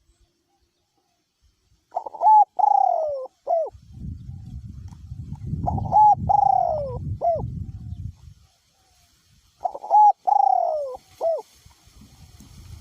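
Male spotted dove cooing three times, a few seconds apart. Each phrase is a short note, a long falling coo and a short closing note. Wind rumbles on the microphone through the middle of the phrases.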